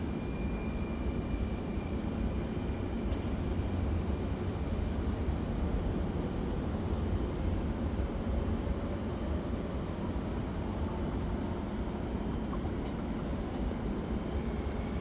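Steady low engine rumble with a faint, steady high whine above it, swelling slightly a few seconds in.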